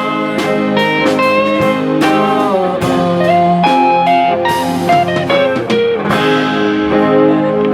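Live band playing an instrumental passage: electric guitar lead with bending notes over chords, bass and drums.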